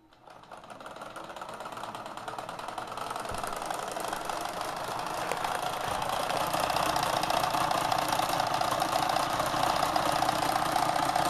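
Kenmore sewing machine mechanism driven by a 3/4 hp motor, running at high speed with a rapid mechanical clatter. It speeds up and grows louder over the first several seconds, then runs steadily, with its bearing cap loose.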